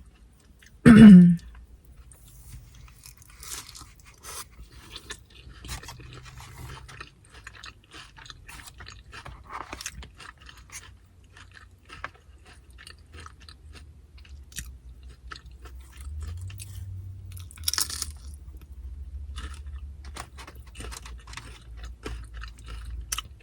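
Close-miked chewing and crunching of tortilla chips loaded with carne asada, many small crisp crackles through the whole stretch. About a second in, a short loud vocal sound from the eater.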